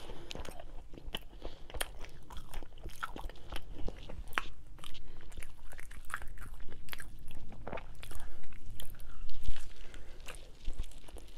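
A person chewing a mouthful of homemade sope topped with avocado, salsa and vegan sour cream, close to a clip-on microphone: a steady run of short, wet mouth clicks, with a fresh bite taken near the end.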